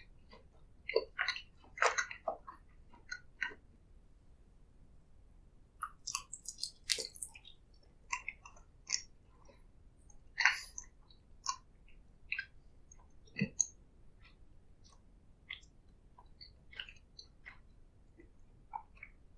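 Close-miked chewing and biting of food: irregular short, wet clicks and crunches, busier in the first few seconds and around the middle, sparser near the end.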